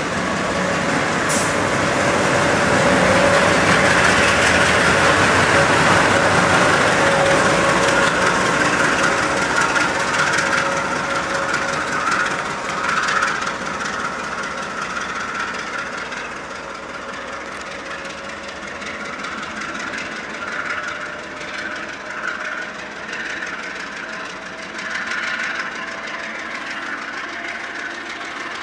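Providence and Worcester freight train passing, with steel wheels rolling and clacking over the rails. The sound is loudest over the first several seconds and then eases off.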